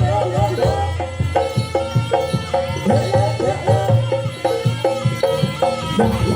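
Live Javanese jaranan gamelan music: drums and a quick, steady beat of pitched percussion strokes, with a wavering melody over them at times.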